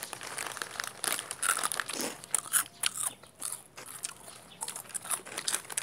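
Crunchy biting and chewing of food close to the microphone: irregular crisp crunches and crackles, loudest about two to three seconds in.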